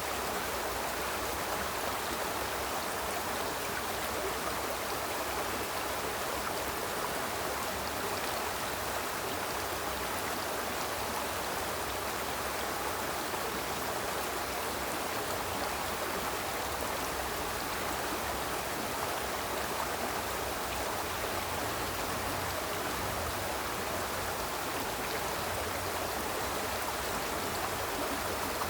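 Small river flowing steadily, an even rushing and babbling of water that does not change.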